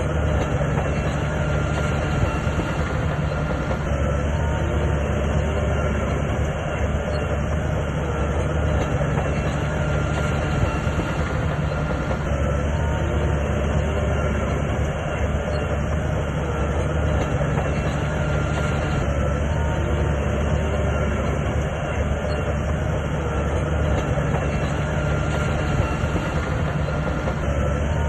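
Crawler bulldozer's diesel engine running steadily with a deep, even drone while the machine works.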